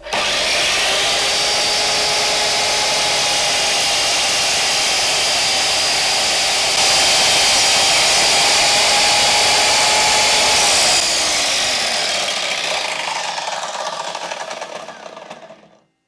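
Einhell TC-MS 2112 mitre saw running at full speed, cutting through a piece of wood, and a little louder for a few seconds in the middle. From about eleven seconds in the blade spins down with a falling whine, and the sound cuts off just before the end.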